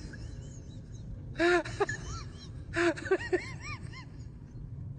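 Bird calls: two quick runs of short, arched calls that rise and fall in pitch, about one and a half and three seconds in, with fainter high chirps between them.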